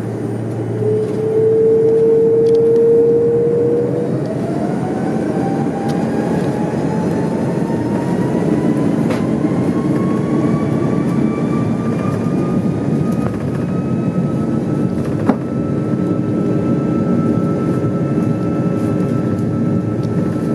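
Jet airliner engines spooling up for takeoff, heard from inside the cabin: a whine that rises steadily in pitch over a constant roar. A sharp knock sounds about fifteen seconds in.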